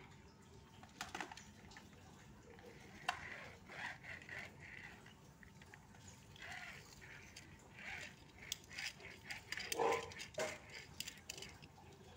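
Plastic toy cars being handled and played with: scattered clicks and knocks, with a few short high squeaky sounds in between.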